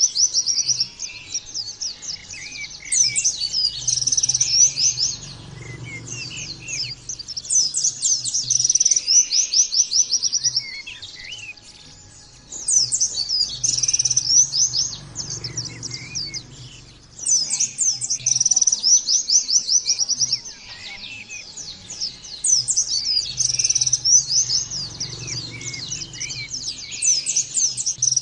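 White-eye (pleci) singing in long, rapid, high-pitched trilling bursts a few seconds each, phrase after phrase, with short lulls between runs.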